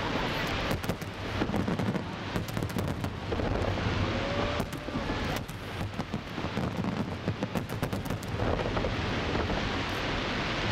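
Fireworks display: a continuous rumble of shell bursts with many sharp cracks and crackles.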